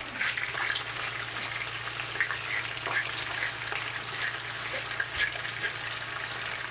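Chicken breasts sizzling in a pan, with the irregular crackle of a pepper mill grinding black pepper over them and a low steady hum underneath.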